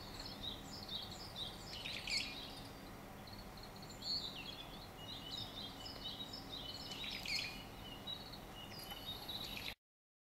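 Small songbirds chirping and calling in quick, repeated high notes, with louder bursts of calls about two seconds and about seven seconds in; the sound cuts off abruptly just before the end.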